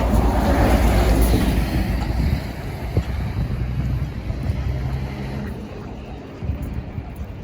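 A motor vehicle's engine passing close by, a low rumble loudest in the first couple of seconds and then fading away, over steady street noise.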